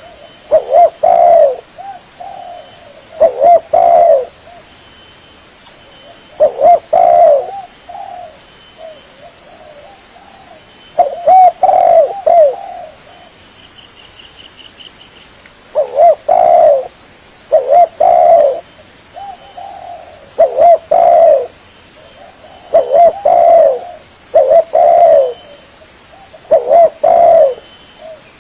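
Spotted dove (tekukur) cooing: phrases of a few rolling coos, repeated every two to three seconds.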